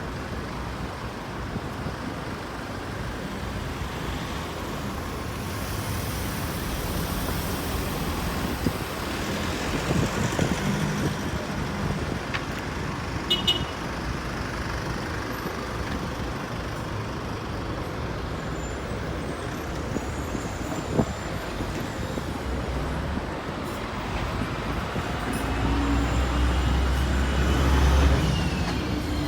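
Windy city street ambience: a steady wash of wind and road traffic noise. Near the end a motor vehicle's engine rumble grows louder as it passes close by.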